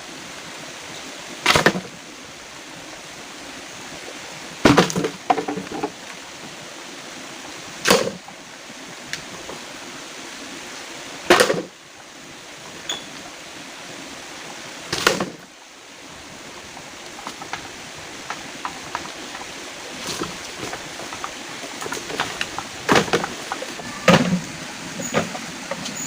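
Steady hiss of rain, broken by a sharp knock about every three seconds, five in all, followed by lighter scattered clicks and taps with two more knocks near the end.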